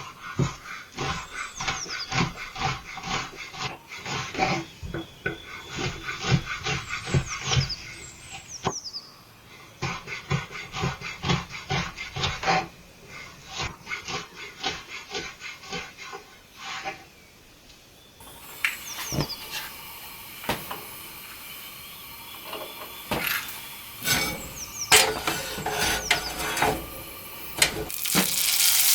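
Rapid knife chopping on a wooden cutting board, several strokes a second in runs with short pauses, then a few scattered kitchen knocks. Near the end, frying starts with a steady sizzle.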